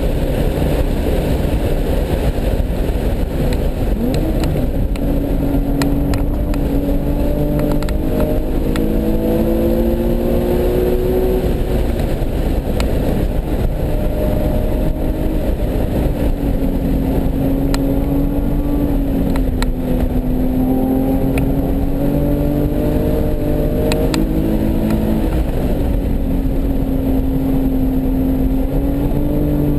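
Nissan 370Z's 3.7-litre V6 running hard on track over steady road and wind rumble. The engine note climbs under acceleration and drops back several times as the car shifts and brakes through the corners.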